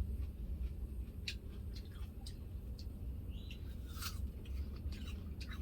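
Crisp apple being bitten and chewed: irregular sharp crunches, the loudest about four seconds in, over a steady low hum.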